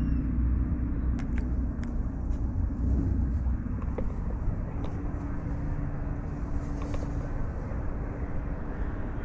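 Steady low outdoor rumble with a few faint clicks, and a faint steady hum for a few seconds midway.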